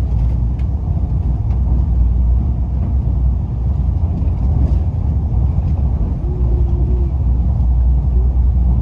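Running noise of a KORAIL 210000-series ITX-Saemaeul electric train: a steady low rumble.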